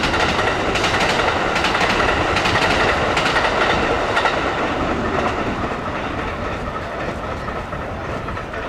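Electric train passing on the main line, a steady rumble with wheels clattering over the rail joints, easing off slightly toward the end.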